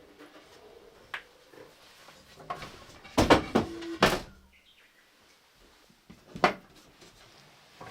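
A few knocks and a short clatter, with brief squeaks, like a door or lid being opened and shut: a burst of knocks about three seconds in and a single knock near the end.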